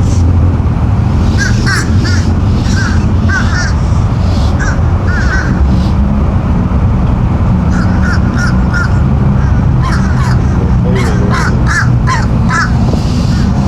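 A bird calling in short, repeated notes, mostly in quick groups of two to four, over a steady low engine drone.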